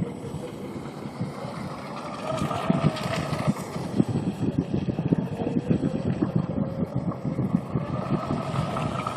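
Electric RC tunnel-hull boat's stock 1900kv brushless motor on a 4S battery, whining as the boat runs. The pitch climbs and falls with the throttle, louder from about two seconds in and rising again near the end, over a rough crackle.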